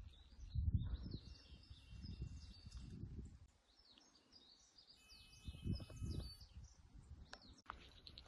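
Small birds chirping repeatedly, with bouts of low thudding rumble underneath.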